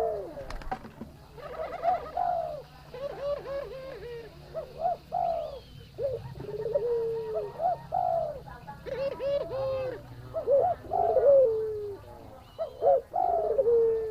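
Barbary dove (puter) cooing over and over in breeding condition, a string of short rising-and-falling coo phrases.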